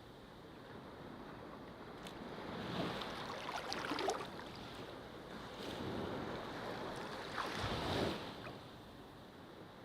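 Ocean surf washing onto a shore. Two waves swell and break about four seconds apart, then recede.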